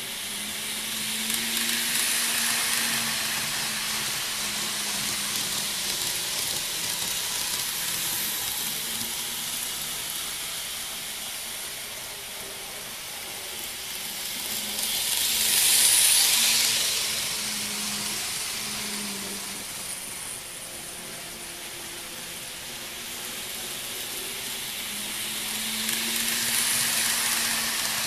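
N-gauge model trains, models of a Hankyu 6300 series and a Kintetsu 30000 series Vista Car, running on track: a steady hiss of wheels on rail with a low motor hum. It swells as a train passes close about two seconds in, is loudest around the middle, and swells again near the end.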